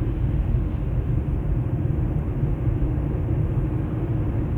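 Steady low rumble of a car driving on a snowy, slushy road, engine and tyre noise heard from inside the cabin.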